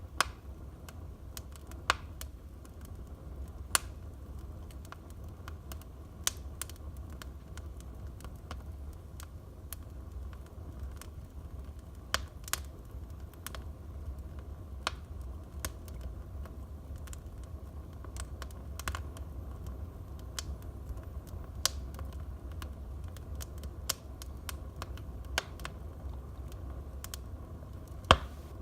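Wood fire burning in a fireplace: a low steady rumble of the flames with irregular sharp crackles and pops from the burning logs, one louder pop near the end.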